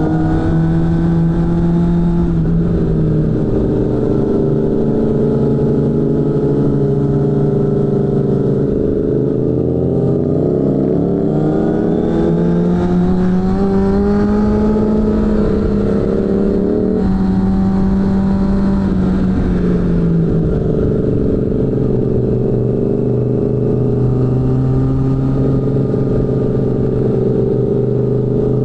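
Suzuki GSF600 Bandit's inline-four engine through a BOS aftermarket exhaust, riding along: the engine note rises and falls with the throttle, drops sharply a little past halfway, then holds steady.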